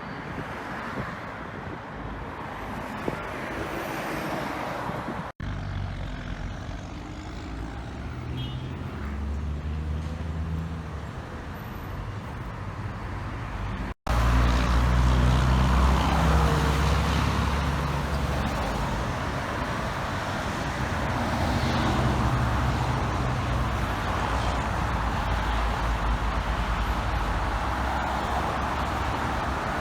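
Straight-piped diesel engine of a 1980s Western Star 4964 truck, its deep exhaust note changing pitch in steps as it pulls along the road, over traffic noise. The sound is loudest from about halfway on, and it breaks off abruptly twice where clips are cut together.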